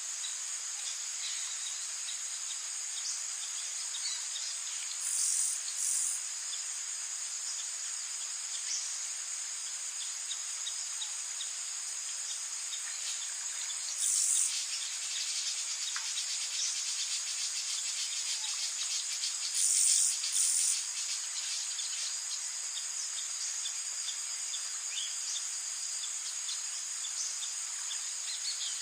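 Rainforest ambience: a steady, high-pitched drone of insects with scattered faint bird chirps. Short louder bursts of high buzzing come about five, fourteen and twenty seconds in.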